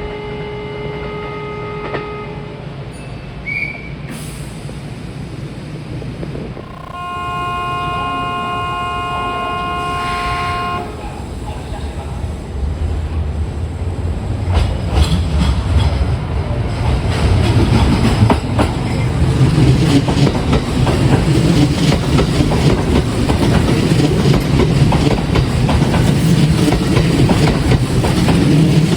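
A Kintetsu electric train (2610 series coupled with 1253 series) at a station: a steady multi-tone horn-like signal is held for about four seconds, then the train's rumble and wheel clacks over the rail joints build up and grow steadily louder as the train moves past.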